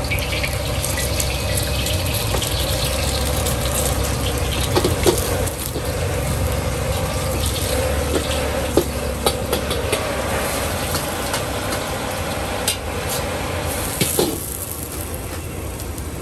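Food frying with a steady sizzle and scattered sharp metal clinks, over a low steady rumble.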